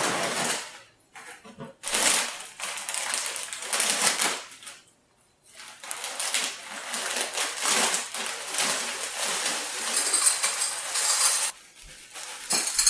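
Hard, crunchy dry cereal being poured and shaken into a bowl, the pieces rattling and clattering, in two stretches with a short pause between.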